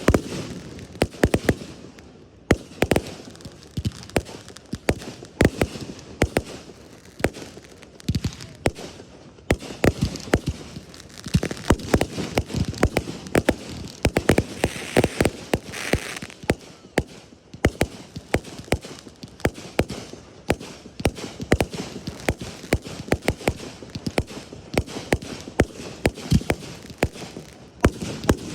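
Fireworks going off in a continuous run of sharp bangs and pops, several a second, with a denser stretch near the middle.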